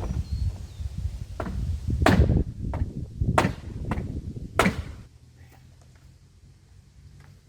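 Four sharp knocks or bangs, roughly a second apart, over a low rumble that falls away about five seconds in.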